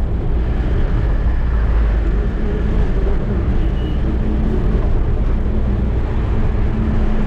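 Eicher truck's diesel engine and road noise while driving: a steady, deep rumble.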